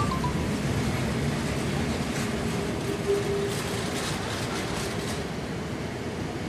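ÖBB tunnel rescue train rolling slowly past as it departs: a steady rumble of wagons on the track, with light clicking of wheels over the rails. A brief high tone about three seconds in.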